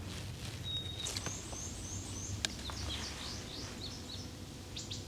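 Woodland songbirds singing: a single held whistle about a second in, then a quick run of about six short high notes, and another phrase of sweeping notes around three to four seconds in. A sharp click comes between the phrases.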